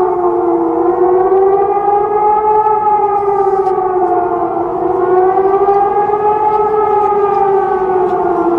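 Civil-defence air-raid siren wailing, its pitch slowly rising and falling about once every four seconds.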